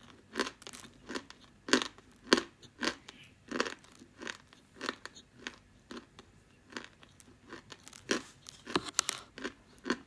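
A person biting and chewing dry edible clay close to the microphone, with crisp crunches coming about twice a second and uneven in strength.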